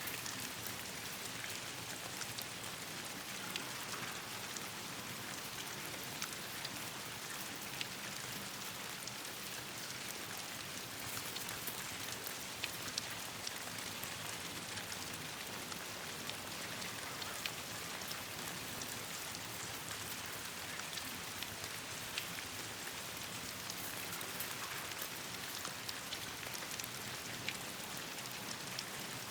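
Steady rain falling on leaves and branches: a constant hiss with many scattered sharp ticks and pops.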